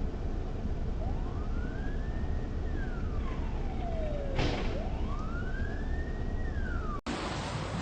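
Emergency-vehicle siren wailing in slow rising-and-falling sweeps, about two full cycles, over steady road noise. It cuts off abruptly about seven seconds in.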